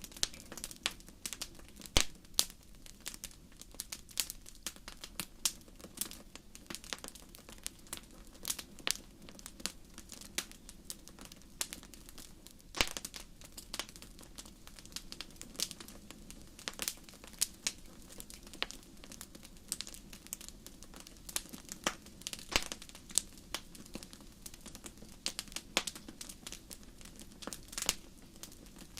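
Fire crackling, with irregular sharp pops and snaps, several a second, over a low steady rumble.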